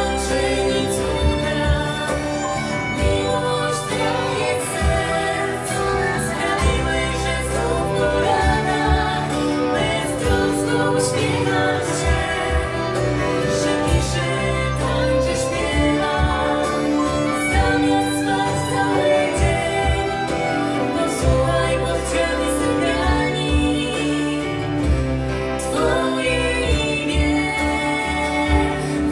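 Live band performing a song, with singing over the instruments.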